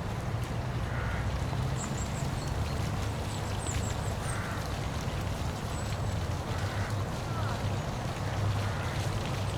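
Steady rushing of a waterfall with a deep, even rumble underneath. Several short bird calls break in over it, about every second or two.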